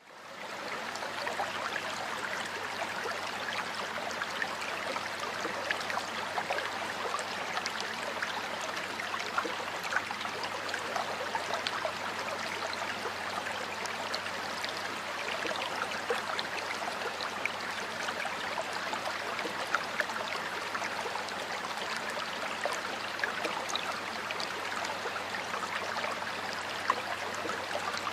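Running water of a stream flowing steadily, a continuous rush full of small splashes and gurgles. It fades in over the first second.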